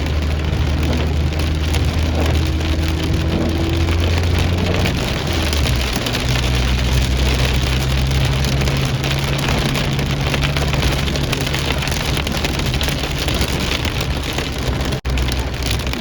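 Steady rain falling, with the low hum of a vehicle engine underneath; the hum shifts in pitch about five seconds in. The sound cuts out for an instant near the end.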